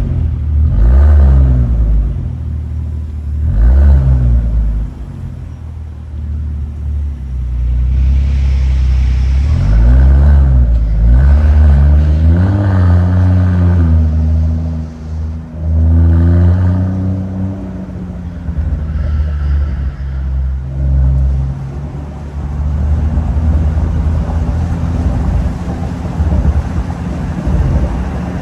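All-new Land Rover Defender with an aftermarket valved exhaust, revved in a series of throttle blips, the engine note rising and falling each time. Toward the end it settles into a steady, rumbling run.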